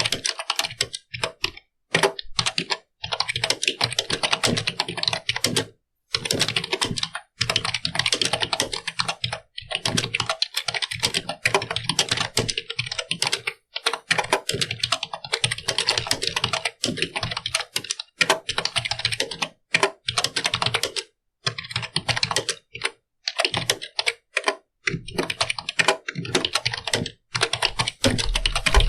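Computer keyboard being typed on: fast runs of clicking keystrokes, broken by short pauses a few times.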